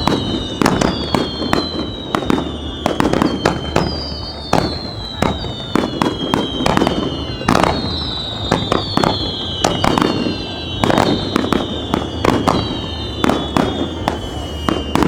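Fireworks display: a dense, continuous barrage of shell bursts and crackles, overlaid with repeated whistles that each slide down in pitch over a second or two.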